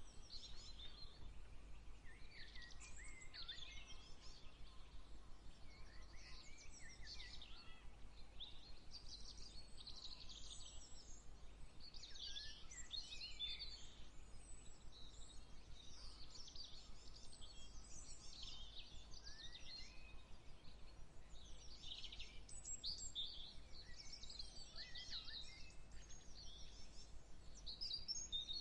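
Several songbirds singing in short, quick, high phrases, one after another and sometimes overlapping, over a faint steady low rumble.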